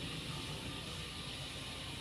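Steady background noise: an even hiss with a low hum underneath, no distinct knocks or clicks.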